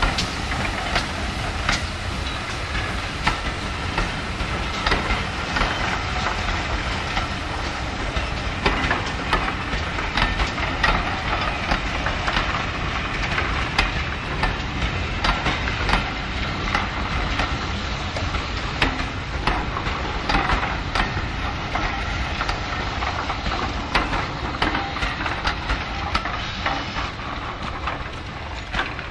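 A train of passenger coaches rolling past, its wheels clicking over the rail joints over a steady rumble, until the last coach goes by near the end.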